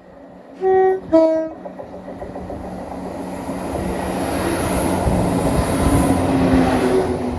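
ScotRail diesel multiple unit sounding its two-tone horn about a second in, a short higher note then a short lower one. The train's rumble then builds as it approaches and passes at speed, loudest around six seconds in.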